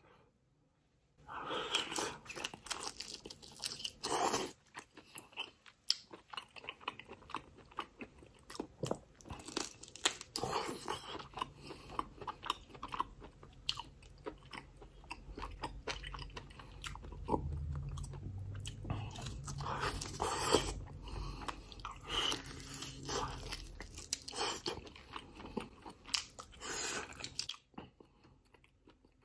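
A man chewing and biting Korean short ribs (galbi) close to a clip-on microphone, with many small mouth clicks. It starts about a second in and stops shortly before the end.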